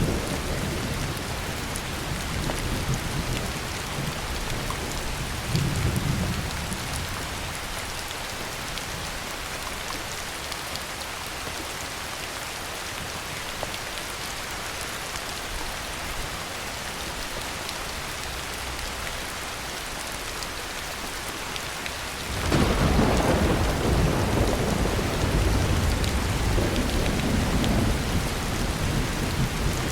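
Heavy rain falling steadily, with a low roll of thunder that dies away in the first several seconds. About three-quarters of the way through, a loud peal of thunder breaks suddenly and keeps rumbling.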